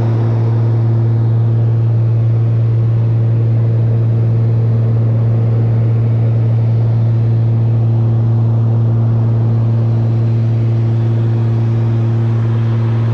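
Cockpit drone of a Cessna 402's twin piston engines and propellers at steady cruise. It is a loud, unchanging low hum with a few steady tones above it, cutting in and out abruptly.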